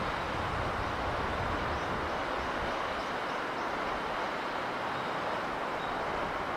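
Steady, even rushing of a sea breeze over the sea, holding one level throughout. A few faint high chirps come through a couple of seconds in.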